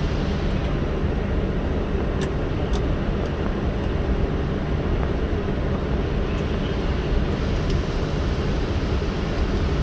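Steady cabin noise in the cockpit of an Airbus A320 on the ground just after landing: a low, even rumble of the engines and air systems, with a couple of faint clicks about two to three seconds in.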